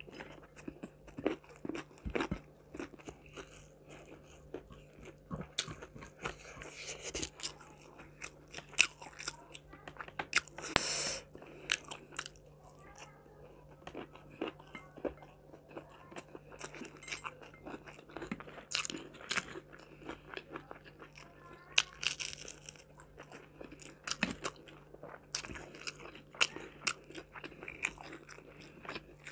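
Close-miked eating: many irregular crisp crunches and chewing as crispy fried chicken and rice are eaten by hand.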